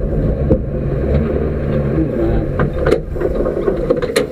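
Rally car engine running at low speed, heard from inside the stripped cabin, with a few sharp knocks or clicks in the second half.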